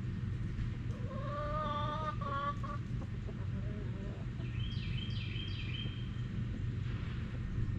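Chickens calling: a drawn-out pitched call about a second in, then a quick run of short high chirps past the middle. A steady low hum runs under them.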